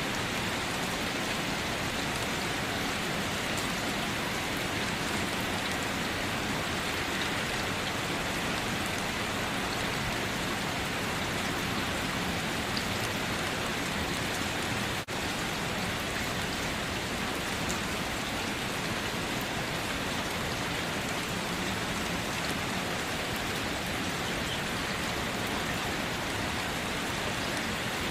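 Steady rain falling, an even hiss with a fine patter of drops, with a momentary dip in loudness about halfway through.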